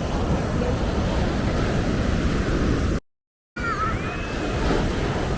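Ocean surf with wind buffeting the microphone, a steady rumbling rush. It cuts off abruptly about three seconds in and resumes half a second later with a few short, high, gliding cries over it.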